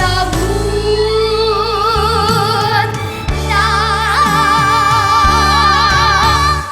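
Young female singers holding the song's final long note with wide vibrato over a full backing band. The whole ensemble cuts off sharply on the last chord near the end.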